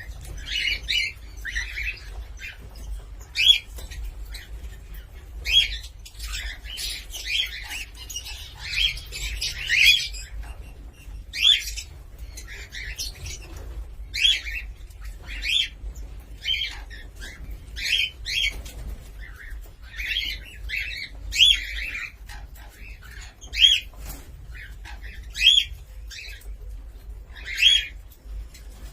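Cockatiel calling: short chirps and whistled calls, some rising and falling in pitch, repeated every second or two.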